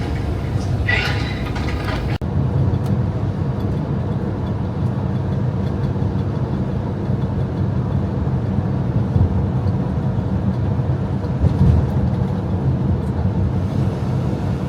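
Steady low rumble of a running semi-truck, with an abrupt cut about two seconds in.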